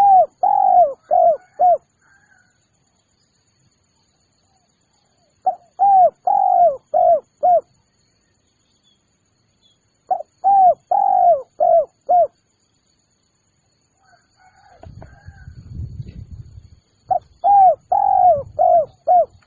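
Spotted dove (tekukur) cooing: four phrases of about five quick coo notes each, repeated every four to five seconds. A low rumble sounds between the third and fourth phrases.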